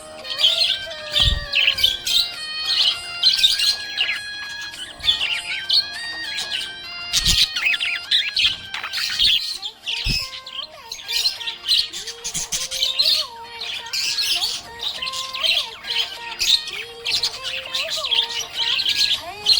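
Budgerigar chirping and warbling in fast, busy runs of high twittering notes, with a melody playing underneath.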